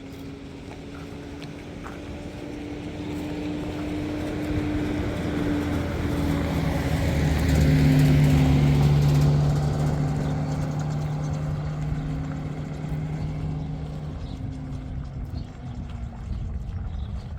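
A motor vehicle's engine drones steadily as it comes closer, is loudest about halfway through, and then goes away again.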